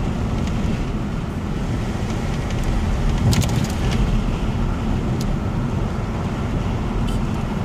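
Steady road and engine rumble heard from inside a moving car, with a couple of brief clicks.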